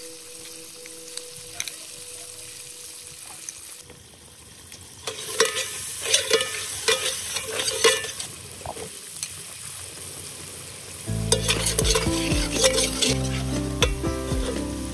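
Red chili paste sizzling in hot oil in a large aluminium pot while a metal ladle stirs and scrapes it, with repeated clicks of the ladle against the pot. Background music with low notes comes in about two-thirds of the way through.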